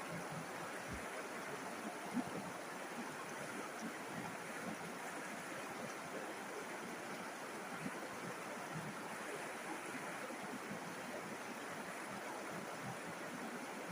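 River water flowing, a steady rushing sound with no change in strength.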